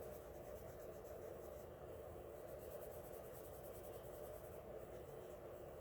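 Prismacolor colored pencil shading on paper: faint, steady scratching of the pencil lead in quick back-and-forth strokes.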